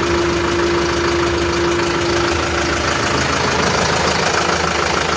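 Kirloskar BS4 diesel engine running steadily at idle. A clear steady tone sits over the engine noise and fades out a little past halfway through.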